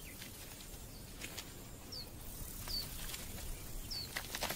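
A small bird chirping in the distance: three short high notes that fall in pitch, over faint outdoor ambience. There are a few soft clicks near the end.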